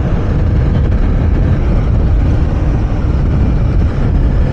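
Honda CB300R's single-cylinder engine running steadily while riding, mixed with a heavy, even rumble of wind on the microphone.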